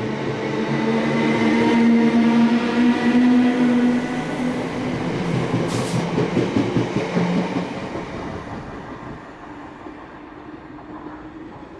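A passenger train going by, its motor hum and rumble building over the first few seconds, then fading away.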